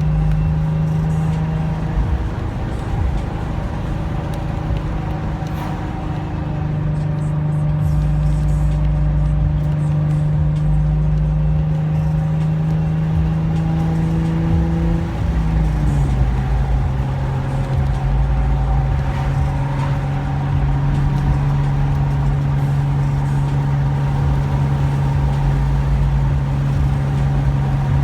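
Infiniti G35's 3.5-litre V6 running through a Motordyne aftermarket exhaust at a steady engine speed, giving a steady, even drone. About halfway through, the pitch glides down slightly and then holds steady again.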